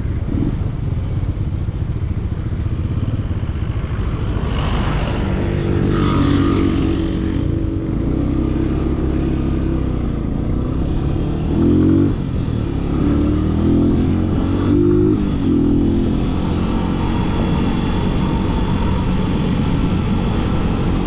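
Yamaha MT-07's parallel-twin engine through an aftermarket full-system exhaust, heard from the rider's seat: steady riding, with a few quick rises and drops in revs around the middle. A short rush of wind noise comes about five seconds in.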